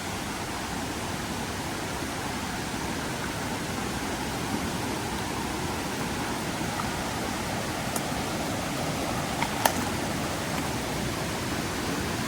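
Mountain river rushing steadily, a constant hiss of flowing water, with two brief sharp clicks late on.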